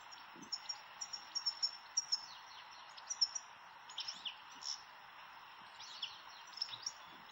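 European goldfinches twittering in the wild: quick high chirps and short trills that come in clusters, about every second or two, over a steady hiss of outdoor background noise.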